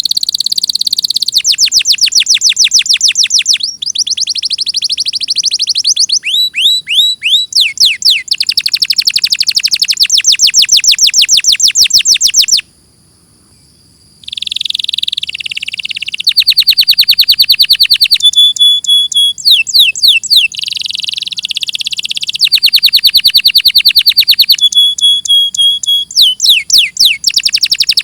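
Domestic canary singing: long runs of rapidly repeated notes and rolling trills, broken by a few quick down-sweeping whistles. The song stops for a moment near the middle, then resumes.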